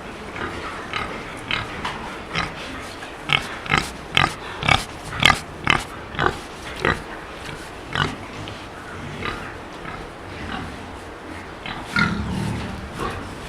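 Pigs calling: a run of short, sharp calls about two a second, loudest in the middle, thinning out later, with a longer, lower call near the end.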